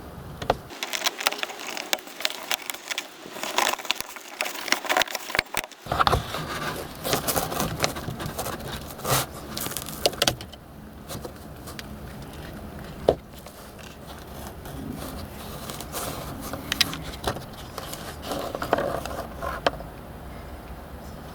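Irregular sharp clicks, knocks and scraping from plastic interior trim being handled and pried loose, with one louder knock near the middle.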